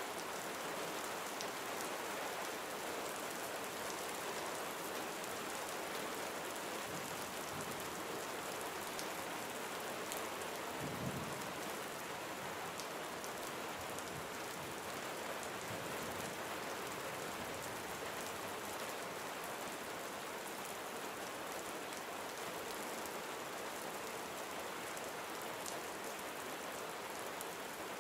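Gentle rain falling steadily on surfaces, with scattered drop ticks and one brief low thud about eleven seconds in.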